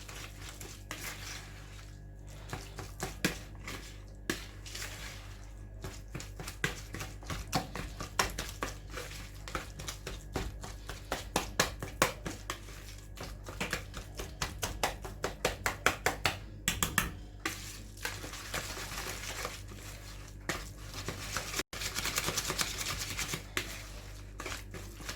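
A utensil stirring a thick cream-cheese mixture in a bowl, clicking and scraping against the bowl in quick repeated strokes.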